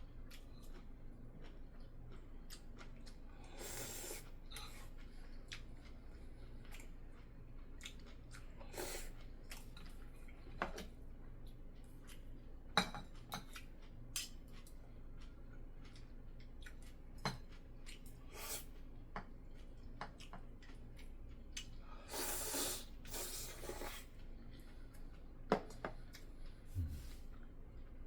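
Sounds of eating: chopsticks and a spoon clicking now and then against bowls and dishes, with chewing in between. Two longer noisy bursts, one about four seconds in and a longer one a little over twenty seconds in.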